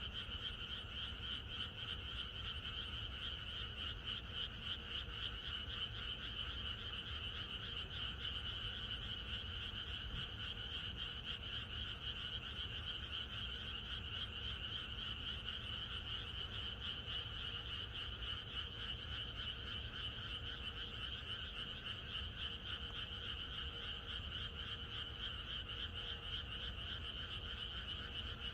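Dense chorus of many frogs calling at once, a steady, unbroken mass of rapid croaks.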